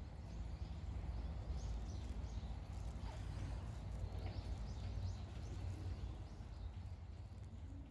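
Outdoor ambience: small birds chirping in quick, scattered calls over a steady low rumble.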